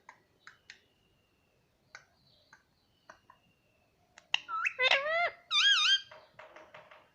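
Baby parrot calling: scattered soft chirps and clicks, then about four seconds in a burst of loud squawking calls that dip and rise in pitch, trailing off into a few soft chirps.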